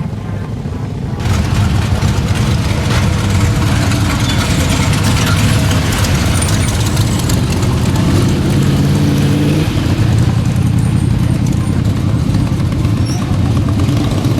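Motorcycle engine running hard and revving, loud and continuous. The pitch climbs steadily and then falls away suddenly about ten seconds in.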